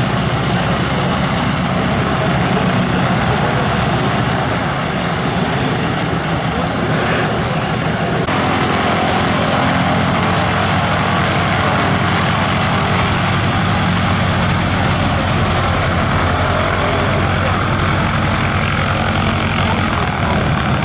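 Pratt & Whitney R-1340 Wasp nine-cylinder radial engine of a Harvard IIB (T-6) running steadily on the ground, warming up after its start. Its tone shifts slightly about eight seconds in.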